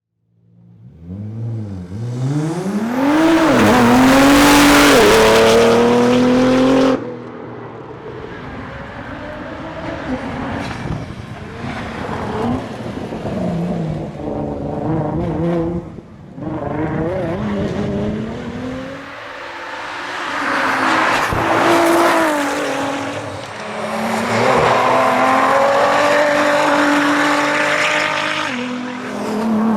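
Nissan R35 GT-R's twin-turbo V6 racing engine accelerating hard through the gears, its pitch climbing and dropping back at each shift. The sound cuts off sharply about seven seconds in, and the engine climbs again several times after that.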